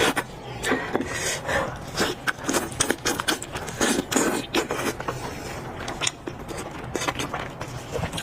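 Close-miked eating of lamb head meat: an irregular run of short wet smacks and clicks from chewing and tearing at the meat.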